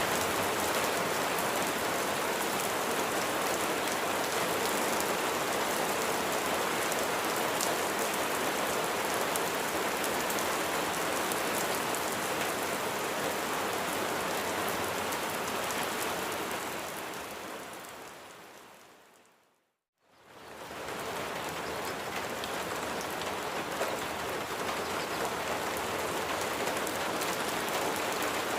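Steady rain falling, a dense even hiss of drops. About two-thirds of the way through it fades away to a moment of silence, then swells back within a second or so and carries on as before.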